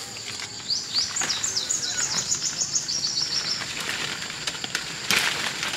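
A songbird singing a rapid run of short, high, repeated notes, slightly falling, for about three seconds, over a steady high-pitched whine. A brief sharp noise about five seconds in.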